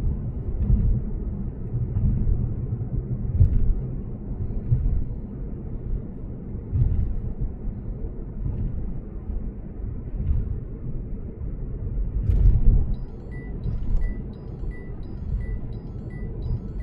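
Low road rumble of a Lexus GS450h cruising at speed, with a few louder thuds from the road surface. About three-quarters of the way through, a high beep starts repeating about every two-thirds of a second.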